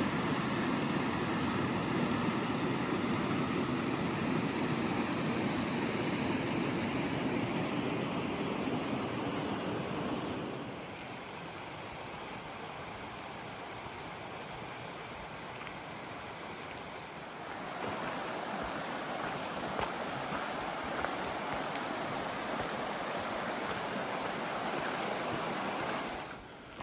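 Roaring rapids of a mountain creek, a steady rush of water. It drops in level about ten seconds in and comes back up about seven seconds later.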